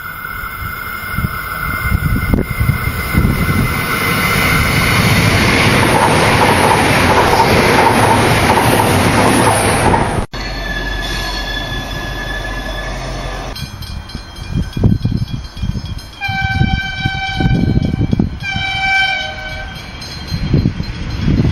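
V/Line passenger train running past, its rail and wheel noise building to a peak. After an abrupt cut, a train horn sounds one held note, then two separate blasts of a several-note horn chord.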